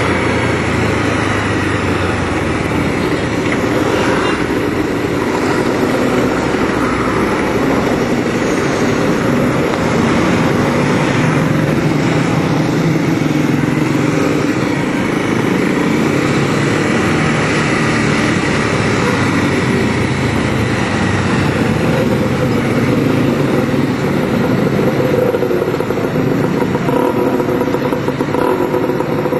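Onboard sound of a 200cc single-cylinder Bajaj Pulsar (Kawasaki Rouser) motorcycle engine running while riding along, its pitch rising and falling gently with the throttle.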